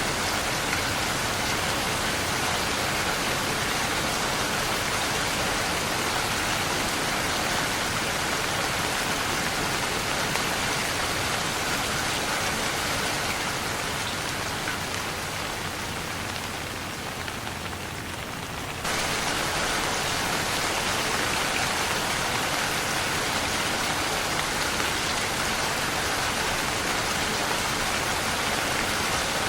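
Steady heavy rain falling, a dense even hiss. Partway through it softens gradually, then snaps back to full strength suddenly about two-thirds of the way in.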